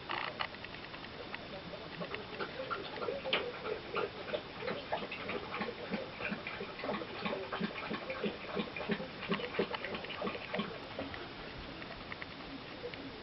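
Woodpecker pecking at a bird feeder: irregular sharp taps, several a second.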